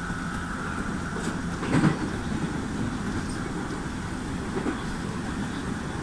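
Steady running rumble heard from the front cab of a JR 211-series electric train, with a short loud burst about two seconds in as an oncoming train meets it on the next track.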